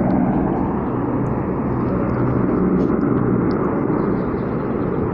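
Military aircraft flying past: steady, loud engine noise with a low hum underneath.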